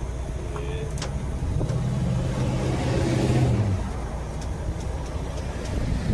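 Vehicle engine running with a steady low rumble; a louder engine tone and road hiss swell up and fade away between about one and a half and four seconds in.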